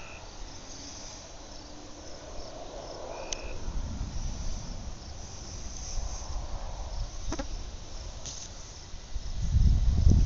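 Insects chirring steadily, with a couple of short high chirps. A low rumble rises near the end.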